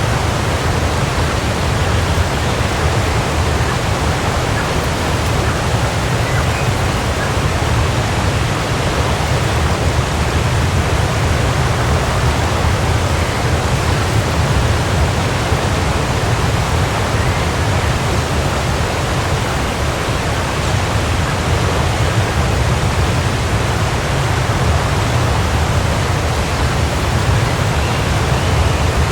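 Waterfall: water pouring and splashing in a loud, steady rush with a deep low rumble.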